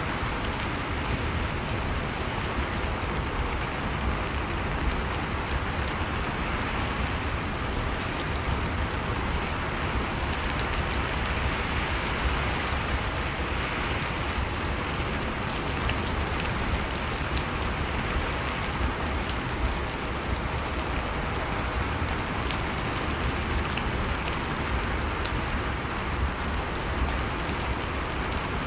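Steady rain ambience, with faint scattered drop ticks, as a continuous backing track.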